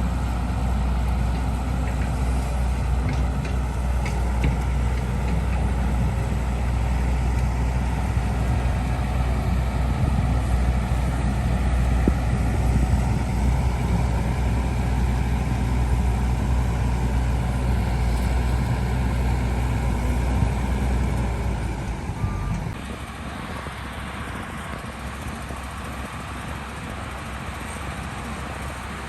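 Heavy earthmoving machine's diesel engine running under load with a steady low drone. About three quarters of the way through it drops suddenly to a quieter running.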